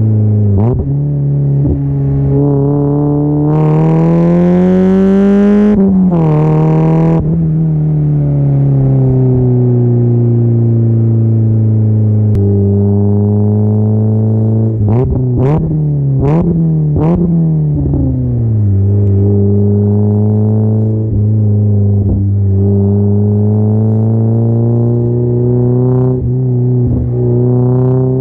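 1999 Mazda Miata's four-cylinder engine running through an ISR catback exhaust, with a very bassy note. It is revved once slowly, rising and falling a few seconds in, then blipped three times in quick succession about halfway, settling back to a steady idle between revs.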